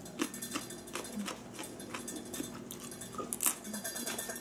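A person chewing a crisp slice of raw daikon radish, with irregular little crunches and clicks.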